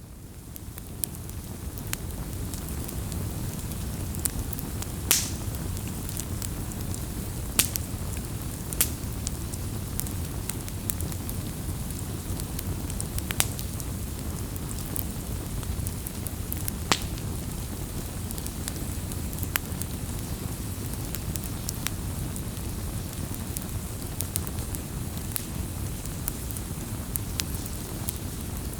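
Wood fire burning: a steady low rush of flames with sharp crackles and pops scattered every second or two, a few of them louder. The sound fades in over the first second.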